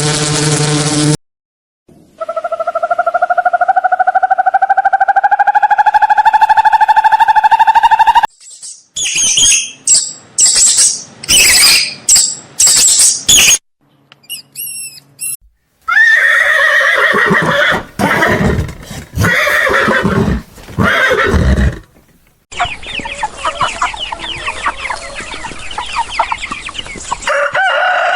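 Farm animal calls in short clips cut one after another, with abrupt gaps between them. They include a long, slowly rising call, runs of short loud calls, and chicken clucking and rooster crowing.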